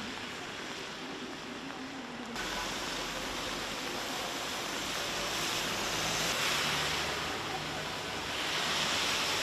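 Steady rushing noise of storm wind and surging water. The sound changes abruptly about two seconds in and then grows somewhat louder.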